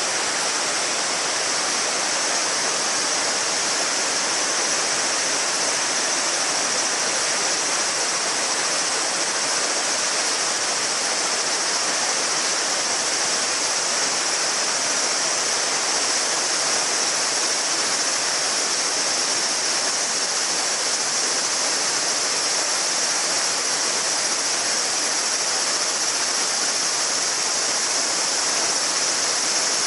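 A shallow mountain river babbling steadily over stones, with a chorus of summer cicadas droning without a break above it.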